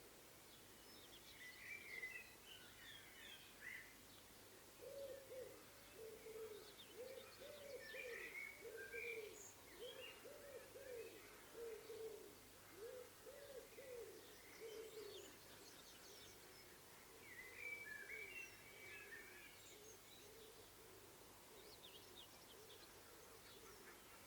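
Dunnock singing: short, fast, high warbling phrases a few seconds long, three of them with pauses between. Through the middle a dove coos over and over in lower repeated notes.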